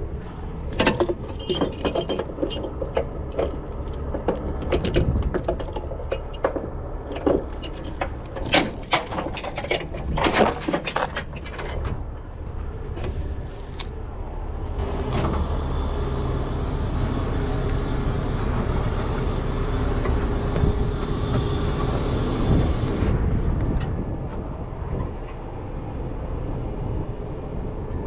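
A truck's diesel engine runs steadily while metal rigging clanks and rattles in quick, irregular knocks for the first dozen seconds. Around the middle a louder, steady rushing noise with a whine sets in for about eight seconds, then stops.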